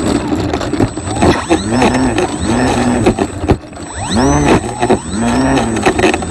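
Motor and propeller of a radio-controlled model Cessna Caravan heard from on board, loud, with its pitch rising and falling again and again as the throttle or airspeed changes, over a rushing noise.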